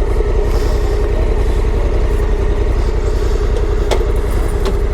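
Motorcycle engine idling steadily. Two short sharp clicks come near the end.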